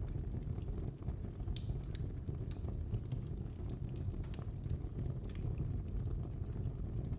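Wood fire in a fireplace burning: a steady low rumble of the flames with irregular sharp crackles and pops, about one or two a second.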